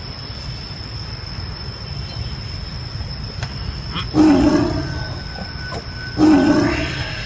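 A large zoo animal roaring twice, about two seconds apart, each call about a second long and fading away.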